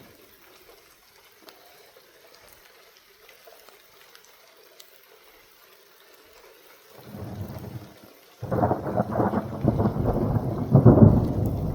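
Thunder following a lightning flash: a faint low rumble about seven seconds in, then a sudden loud peal about eight and a half seconds in that keeps rolling and rumbling. Light rain falls throughout.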